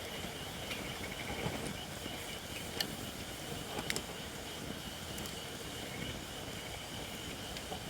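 Wood fire of shirakashi (Japanese white oak) logs burning with a steady low rustle, a faint high note held underneath, and a few sharp crackles near the middle. The uploader says the oak is not yet dry enough, which gives the fire a hissing sound.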